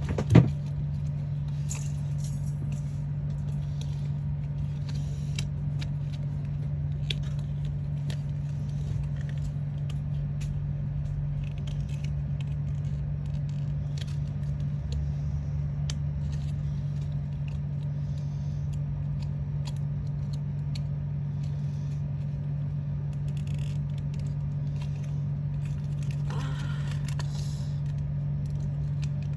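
Steady low hum, with faint clicks and rustles of paper and card being handled while a model is cut and assembled; a sharp knock about half a second in, and a short rustle near the end.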